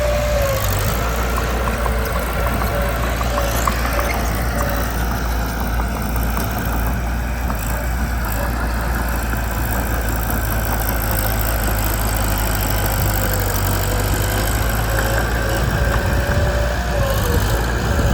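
Diesel engine of a Mitsubishi BD2 crawler bulldozer running steadily, with a faint wavering whine over the engine hum.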